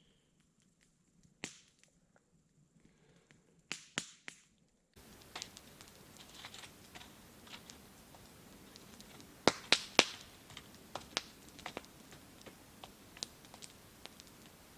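Wood campfire crackling: irregular sharp pops and snaps, sparse at first, then more frequent over a steady low hiss, with a few louder cracks near the middle.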